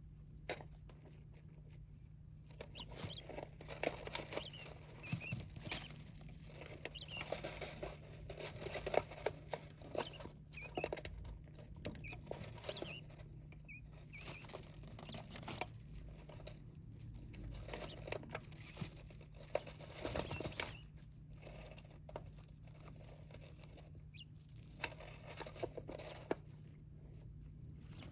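Small pet birds scratching, pecking and shuffling on a surface: irregular soft taps and rustles, with a few faint short chirps. A steady low hum runs underneath.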